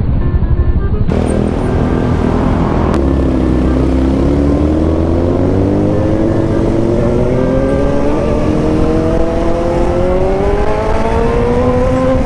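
Suzuki GSR 750's inline-four engine under way, its pitch climbing slowly and steadily from about three seconds in as the revs build, then dropping sharply near the end at a gear change, with rushing wind noise.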